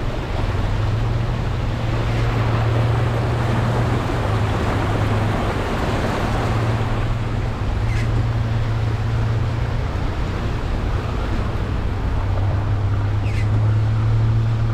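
Steady rain and wind, with a low rumble of wind buffeting the microphone that comes and goes.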